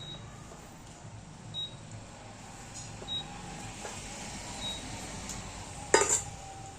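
Induction cooker's buzzer giving four short high beeps, about one every second and a half, over a low hum, then a sharp click about six seconds in.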